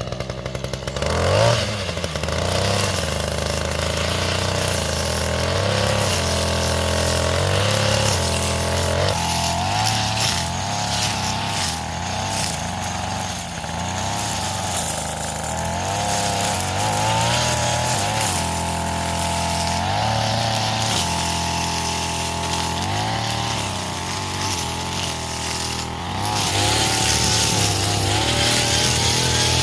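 Small petrol engine of a lawnmower-engine generator running, revving up about a second and a half in, then running with its speed wavering up and down.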